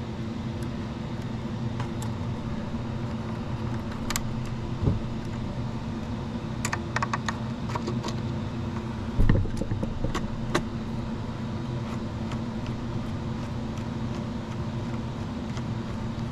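Small metallic clicks and taps of a screwdriver, terminal screw and wire lug being handled while the blue neutral wire is fitted and screwed down on the power supply's terminal block. There are two soft thumps, one near the middle, over a steady background hum.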